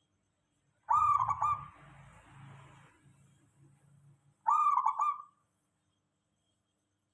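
Zebra dove (perkutut) cooing: two short phrases of quick, soft coo notes, about three and a half seconds apart.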